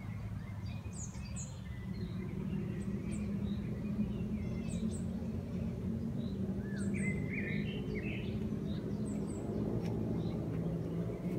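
Small songbirds chirping and calling on and off, with a busier run of calls about seven seconds in, over a steady low hum.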